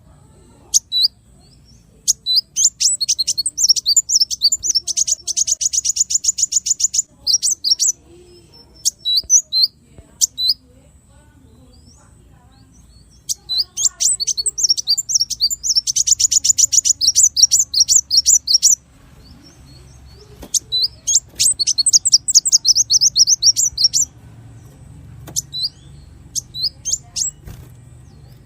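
Small songbirds singing in a masteran tutor recording: three long runs of very rapid high chirps and trills, the 'tembakan' bursts, with scattered single notes between them.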